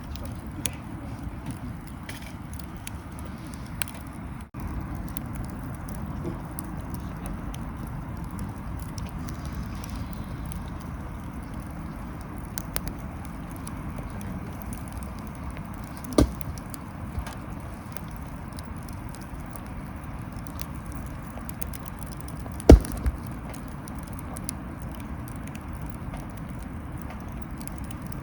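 Wood fire burning in a small steel grill: a steady low rushing hiss with scattered light crackles, and two sharp pops from the burning wood, one about halfway through and a louder one later.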